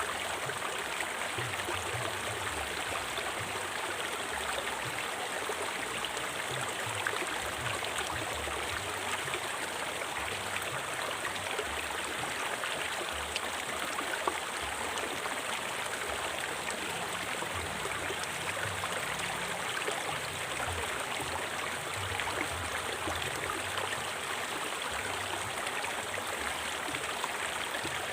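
A river flowing: a steady, unbroken rush of moving water.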